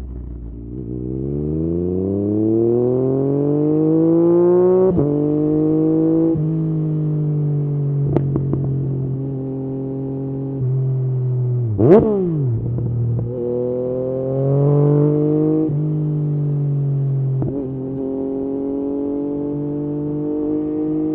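Yamaha MT-09's three-cylinder engine through an Akrapovič exhaust, on the move: it winds down, then pulls up through the revs with several gear changes. It settles into steady running between shifts, with a brief sharp rise and fall in pitch about halfway through.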